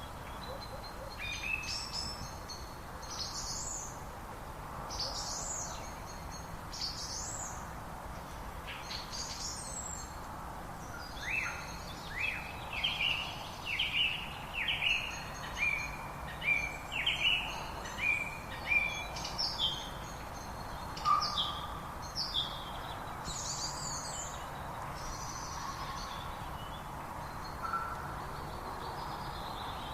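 Wild birds singing: many short chirps and whistles, with a quick series of repeated downward-sliding notes through the middle, over a steady background hiss.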